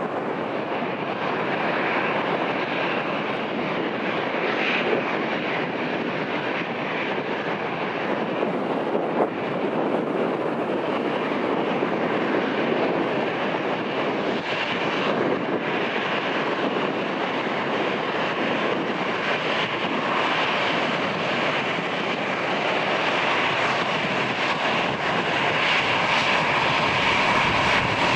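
Jet engines of an arriving easyJet Airbus A319: a steady, continuous rush that grows slightly louder near the end.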